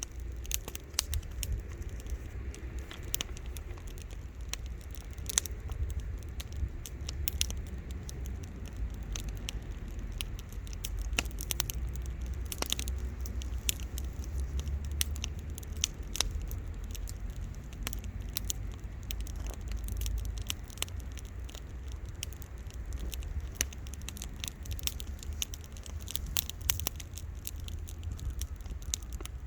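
Wood fire crackling, with irregular sharp pops and snaps scattered throughout over a steady low rumble.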